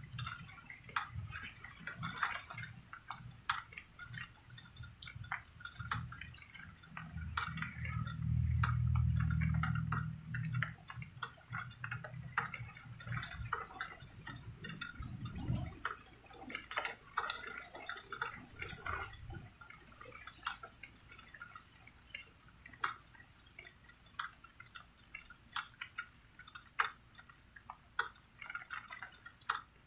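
Rain falling as dense, irregular drips and drops, with low rumbles of thunder: one fading at the start, the loudest lasting about four seconds roughly a quarter of the way in, and a shorter one near the middle.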